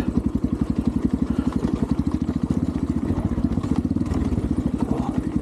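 Xpro Templar X 250cc dirt bike's single-cylinder four-stroke engine running steadily at low revs, an even, quick pulse of firings.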